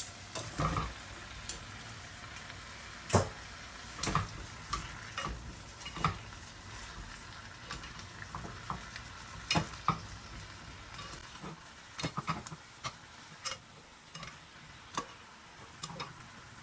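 Cooking sounds: irregular clinks and knocks of utensils against cookware, a dozen or so scattered through, over a faint steady sizzle.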